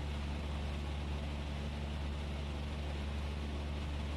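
Cessna 172S's four-cylinder Lycoming engine and propeller droning steadily in cruise flight.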